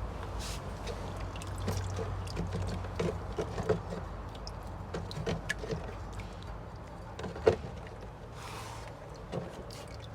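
Scattered light clicks and knocks of metal transmission clutch parts being handled on a bench, with one sharper knock about three-quarters of the way through, over a steady low background hum.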